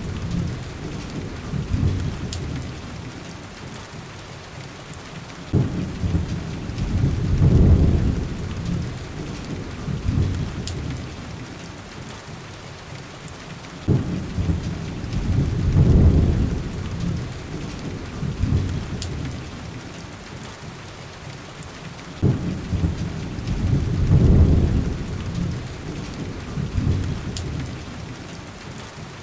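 Rain falling steadily as a constant hiss, with deep rolls of thunder that break in suddenly and swell about every eight seconds, three times over. A few faint crackles sound through the rain.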